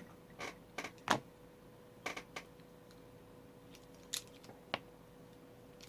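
A few small, sharp clicks and taps at uneven intervals, like makeup compacts, caps and brushes being handled and set down on a table, over a faint steady hum.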